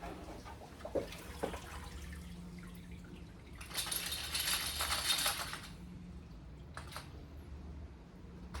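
Small metal carburettor parts clinking a few times, then about two seconds of liquid running and dripping: parts coming out of an ultrasonic cleaner's bath after their cleaning cycle.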